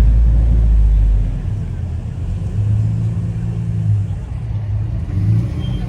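Car engine running with a deep low rumble, loudest in the first second, then a steadier hum partway through.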